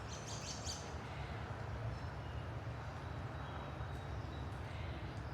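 A few short, high bird chirps in the first second, over a steady low rumble.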